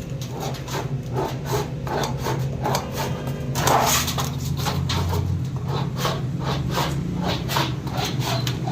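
Rhythmic rasping strokes of a hand tool working stainless steel, about three a second, with a louder, longer stroke about four seconds in, over a steady low motor hum.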